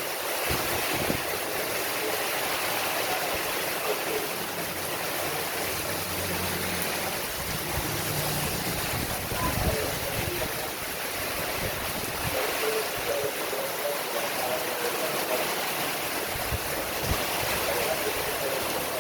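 Heavy rain pouring down in a steady, dense hiss. A low rumble swells and fades about five to nine seconds in.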